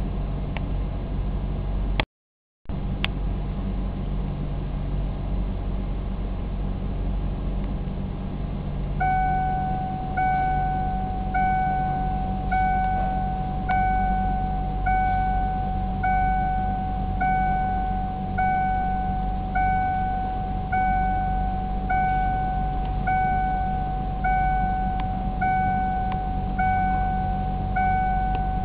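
A steady low hum, then from about nine seconds in an electronic beep chime repeating evenly about once a second during a Ford EEC-IV key-on, engine-off self-test. There is a short dropout to silence about two seconds in.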